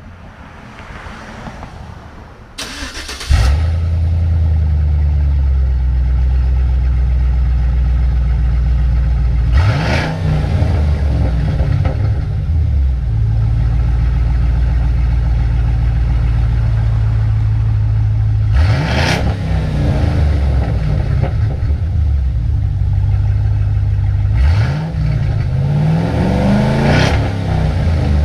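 A 2011 GMC Sierra's 4.8-litre V8 through a Black Widow aftermarket exhaust being started: a brief crank about three seconds in, then it catches and settles into a loud, deep idle. It is revved and let fall back to idle a few times, in the middle and near the end.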